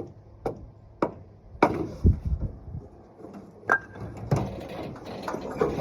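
Wooden 2x4 chock being knocked out from under a brakeless vehicle: four sharp wooden knocks about half a second apart, then heavier thuds with a low rumble, two more knocks, and a rising rumble near the end.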